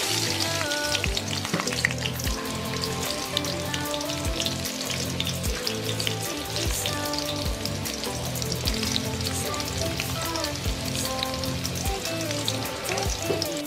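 Oil sizzling and crackling in an aluminium wok as sliced shallots, garlic and tomato sauté, over background electronic music with a steady beat.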